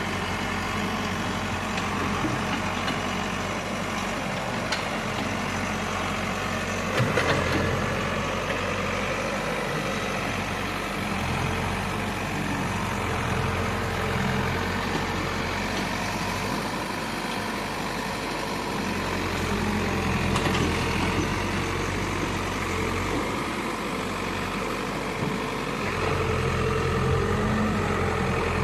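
Diesel engine of an earthmoving machine such as an excavator or backhoe loader, running steadily, with a brief knock about seven seconds in.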